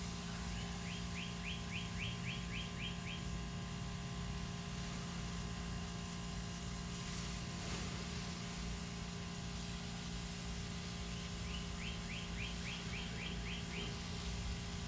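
A songbird sings twice, each song a rapid run of about ten short, quick notes, over a steady hiss and hum.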